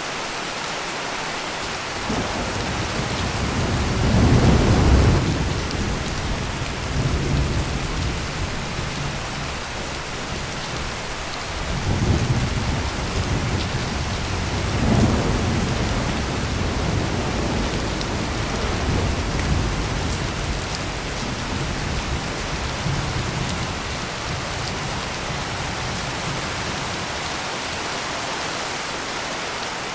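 Steady heavy rain with thunder rolling underneath: a low rumble builds from about two seconds in, swells to its loudest around four to five seconds, rises again twice further on, then slowly dies away, leaving the rain alone near the end.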